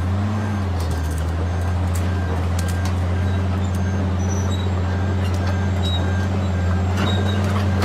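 Heavy vehicle engine running steadily, a loud low drone at an even pitch, with faint scattered clicks.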